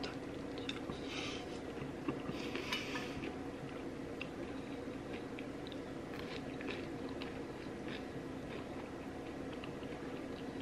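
Close-miked eating: chewing food, with scattered small clicks and taps of cutlery or plate, over a steady low hum.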